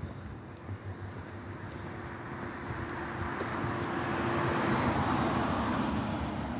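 A car driving past: tyre and engine noise swells to a peak about five seconds in, then begins to fade.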